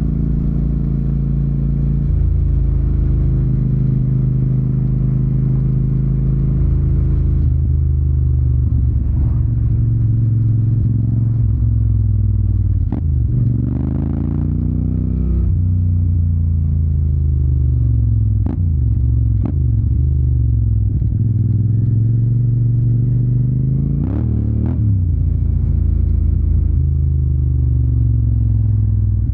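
Yamaha TDM 900's parallel-twin engine running through an Akrapovic exhaust while riding. Its pitch steps as the gears change, and several times the revs drop and climb again.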